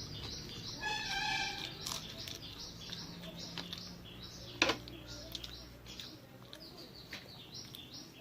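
Small birds chirping rapidly and repeatedly in the background, with a short pitched call about a second in. A single sharp click about halfway through is the loudest sound.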